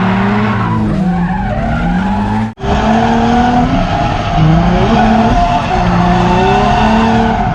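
Drift car engine revving up and down through a slide, with tyres squealing. The sound breaks off abruptly about two and a half seconds in and picks straight back up.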